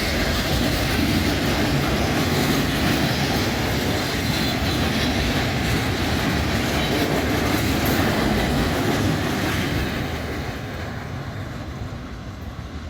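Train rolling past on the rails, a steady rumble and clatter of wheels that fades away in the last few seconds as it moves off.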